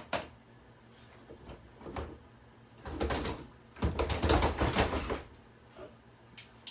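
Knocks and a dense burst of rattling from the plastic body of a Hoover vacuum cleaner as it is handled, then a run of quick sharp clicks starting near the end.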